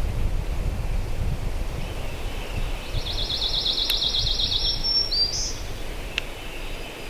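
Wind buffeting the microphone with a low rumble that eases toward the end. About three seconds in, a small songbird sings a rapid, high, even trill lasting nearly two seconds, followed by a short rising note.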